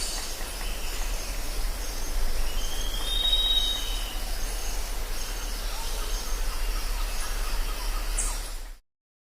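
Jungle ambience: a dense high-pitched haze of insects with bird whistles, one of them rising and holding about three seconds in. It cuts off suddenly near the end.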